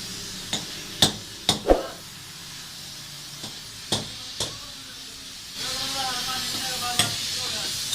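Scattered sharp knocks and clinks of metal tools and parts in a car repair workshop, about seven in all. About two thirds of the way through, a steady hiss and faint background voices come up.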